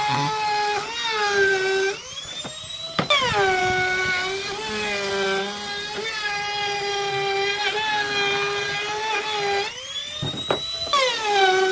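Electric power tool motor whining while cutting wood, its pitch sagging under load. Twice it revs up freely, about two seconds in and again near the end, then bogs down with a knock as it bites back into the wood.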